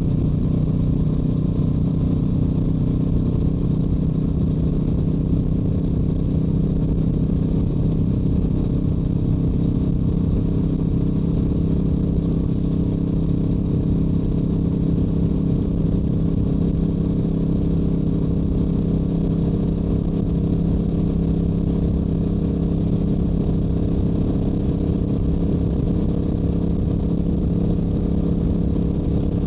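Stock Yamaha YZF-R7 parallel-twin engine and exhaust pulling at a steady highway cruise, a constant drone with no gear changes, under a low rush of wind on the microphone.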